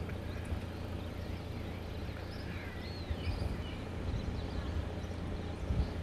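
A few birds calling with short whistled, gliding chirps, clustered about two to three seconds in, over a steady low rumble.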